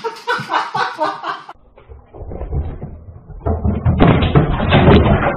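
A person's voice briefly. Then, through a security camera's microphone, a low rumble that builds to loud knocking and clattering thumps.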